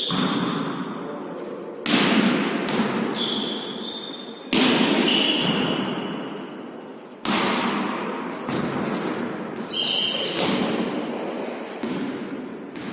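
A volleyball being struck and bouncing on a sports-hall floor during a volley-tennis rally. There are several sharp hits a second or so apart, each ringing on in the large hall, with short high squeaks in between.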